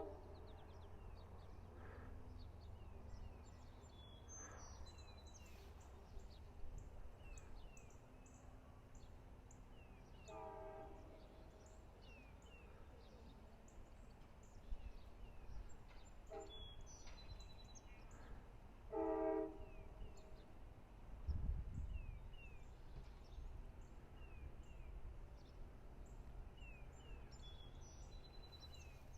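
Diesel locomotive horn giving short blasts, about three times, over a steady low rumble from an idling diesel, with birds chirping.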